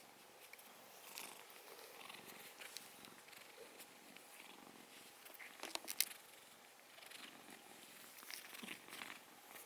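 Domestic cat purring softly close to the microphone, with a few sharp little clicks about six seconds in.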